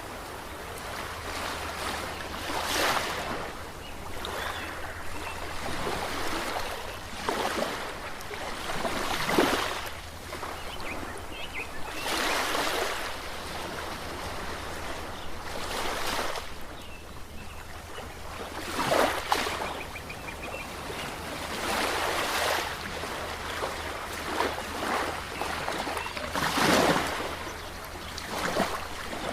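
Ocean surf: waves breaking and washing in one after another, a swell of rushing noise every few seconds.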